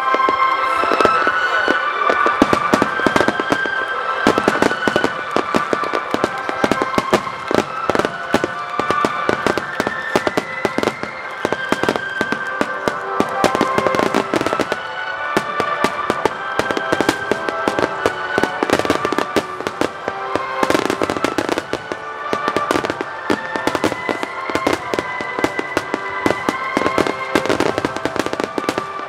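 Fireworks bursting and crackling in rapid, continuous succession, over music with sustained tones.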